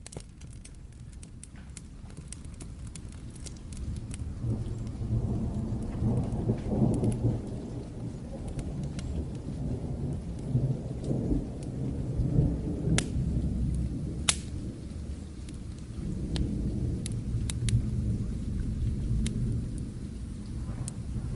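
Rain ambience fading in, with low rolling thunder building from about four seconds in and rumbling on. Sharp crackling pops from a wood fire are scattered throughout, two of them louder a little past the middle.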